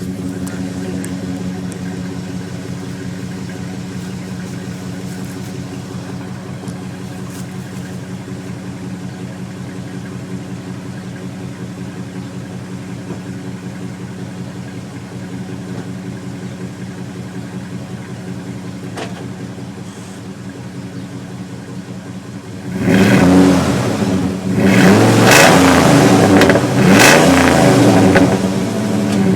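2002 Dodge Ram 1500's 4.7-litre V8 on its stock exhaust, idling steadily, then revved several times in quick succession near the end.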